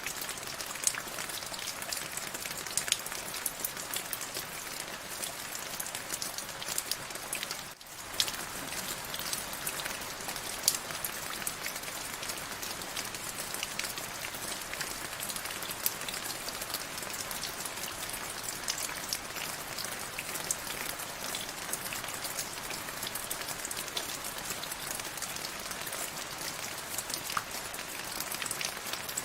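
Steady rain falling, a continuous hiss with many individual drops striking sharply on top. The sound dips for a moment about eight seconds in, then carries on as before.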